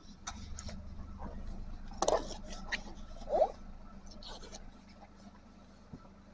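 Rubber boots scraping and rubbing, with a cluster of scrapes about two seconds in and a short rising squeak of rubber about a second later.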